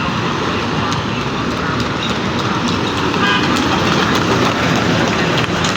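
Heavy diesel trucks running in road traffic: a steady, loud mix of engine rumble and tyre noise.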